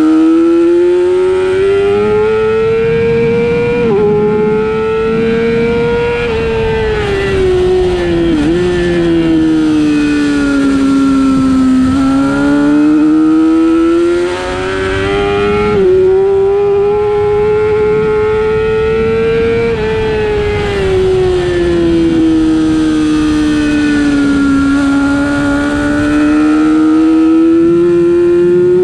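Racing superbike's engine at high revs, its pitch climbing and falling in long sweeps as it accelerates and slows for corners, with a few quick breaks in the note at gear changes.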